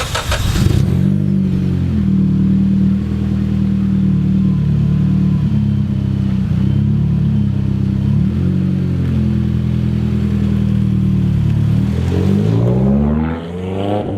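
Mitsubishi Lancer Evolution X's turbocharged 2.0-litre four-cylinder running, its exhaust note steady at a low pitch after a brief loud rush at the very start. The engine speed shifts slightly a few times and dips and rises again near the end.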